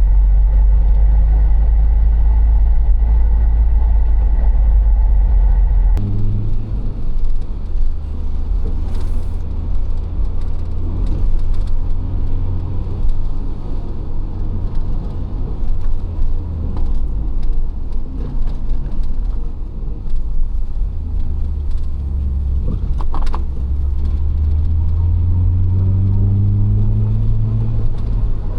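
Citroën XM 2.0 Turbo car driving: steady engine and road rumble. Near the end the engine note rises as it accelerates.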